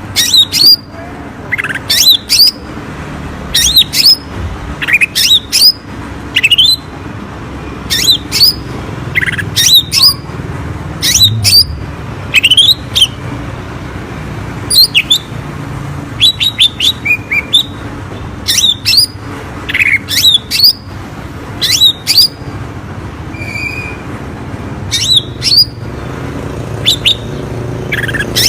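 Green leafbird (cucak ijo) giving its 'trotol' song: clusters of short, sharp, sweeping calls repeated every second or two, over a steady low hum.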